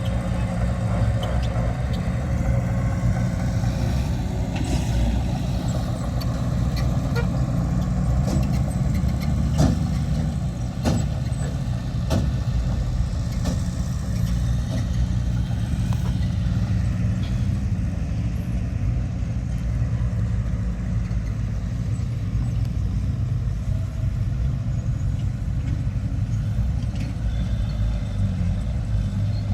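Heavy diesel earthmoving machinery running steadily with a low engine drone. A few sharp metallic clanks come about ten to twelve seconds in.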